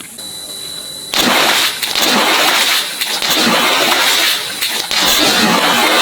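A sudden loud burst about a second in, then a sustained rush of gushing water, as of an over-inflated toy bursting and flooding out.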